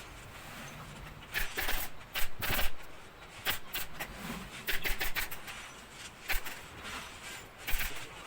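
Irregular short scrapes and rustles of upholstery work, a dozen or so over several seconds over a low background hum.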